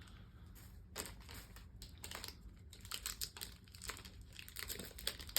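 Plastic wrapper of an ice cream wafer bar being crinkled and torn open: a run of irregular crackles and crinkles.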